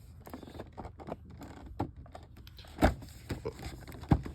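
Handling of a boxed action figure's cardboard and plastic packaging: irregular clicks and rustles, with two louder knocks, one about three seconds in and one just after four seconds.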